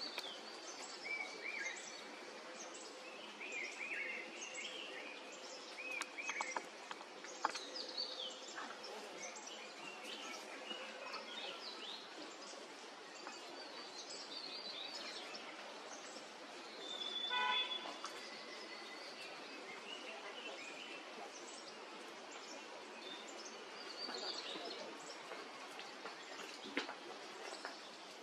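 Several wild birds calling, with many short chirps and whistled notes over a steady background hiss. A louder burst of rapid repeated notes comes about two-thirds of the way through.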